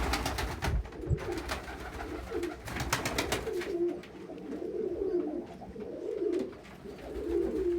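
Domestic pigeons cooing, overlapping low warbling coos over and over. Two brief bursts of rapid rustling clicks come at the very start and about three seconds in.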